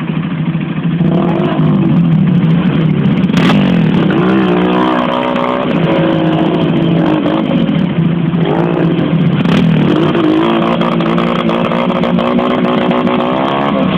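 Motocross dirt bike engine revving, the pitch climbing as it accelerates through the gears, dropping sharply about two-thirds of the way in and then climbing again. There are a couple of brief knocks along the way.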